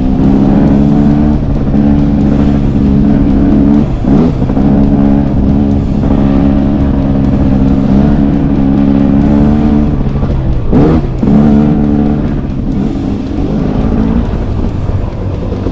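Husqvarna 300TX single-cylinder two-stroke dirt bike engine running under load, loud and steady, with its pitch dropping and climbing back twice, about 4 seconds and about 11 seconds in.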